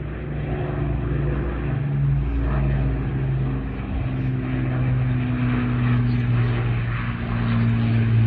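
Propeller-driven World War II warbird flying over, its piston engines giving a steady low drone that shifts slightly in pitch and grows a little louder toward the end.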